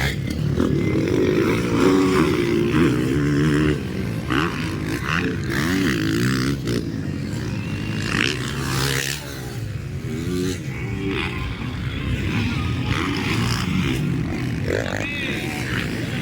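Motocross dirt bike engines revving, several bikes at once, their pitch rising and falling as riders work the throttle. The overlapping engines are densest in the first few seconds and thin out after.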